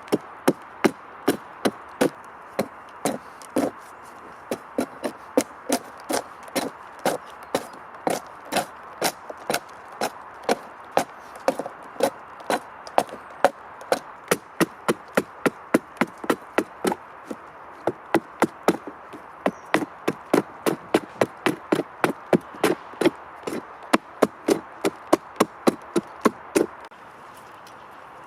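Rapid, even strikes of a hand tool on wood, about two to three a second, stopping near the end.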